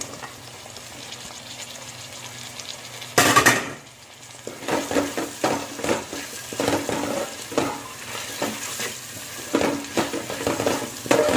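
Mixed vegetables frying in oil in a pot with a steady sizzle, freshly added chopped capsicum going in. About three seconds in comes a short loud burst, then a wooden spatula stirs and scrapes the vegetables against the pot in quick uneven strokes over the sizzle.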